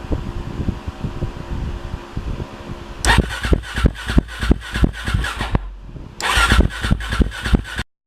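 Motorcycle with an Arrow low-mount aftermarket exhaust idling, then revved up twice with a loud, choppy exhaust note, the second rev about three seconds after the first. The sound cuts off suddenly near the end.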